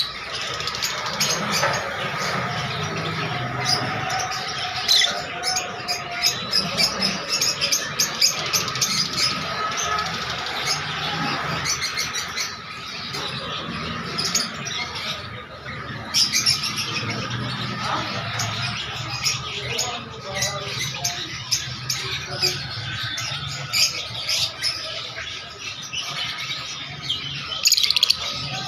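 Many small caged birds chirping and squawking at once: a dense, unbroken chatter of short calls.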